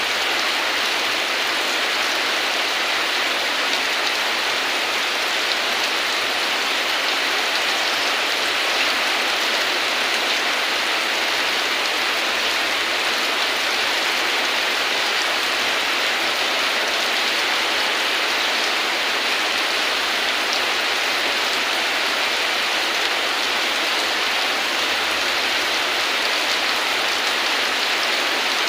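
Steady heavy rain falling, an even hiss with no let-up or thunder.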